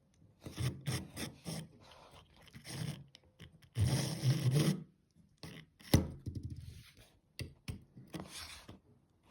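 Hands fumbling a small model locomotive against a 9-volt battery: irregular rubbing and scraping with scattered clicks and a sharper knock about six seconds in. No motor hum is heard, so the battery test does not get the loco running.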